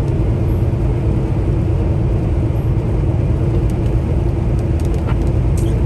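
Semi-truck heard from inside the cab while cruising at highway speed with the engine brake off: a steady low drone of engine and road noise. A few light ticks come near the end.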